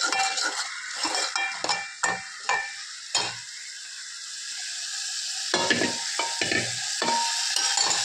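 Masala paste sizzling in hot oil in an aluminium pot, with a steel spoon stirring and scraping against the pot in quick strokes during the first few seconds and again near the end.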